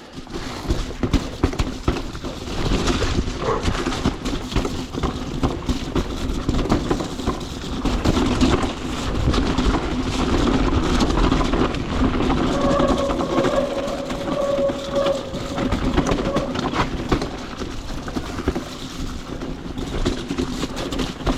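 Electric mountain bike ridden over a rough trail: a continuous clattering rattle of the bike and tyres over the ground, mixed with wind noise on the microphone. A whine rises for about three seconds just past the middle.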